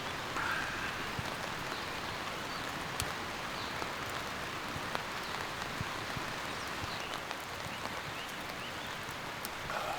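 Steady rain falling, with a few sharp taps of single drops striking close by.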